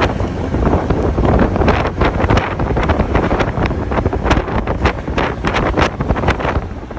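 Wind buffeting the microphone of a moving motorcycle, in irregular gusts, over the running inline-four of a Honda CB400 Super Four Revo with a Yoshimura exhaust.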